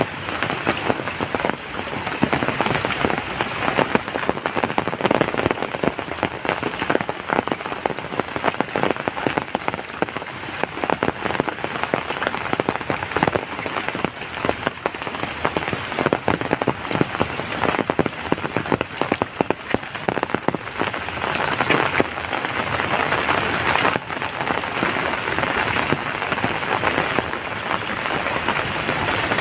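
Heavy rain falling steadily, a dense hiss of countless drops striking surfaces, with individual drop impacts pattering through it.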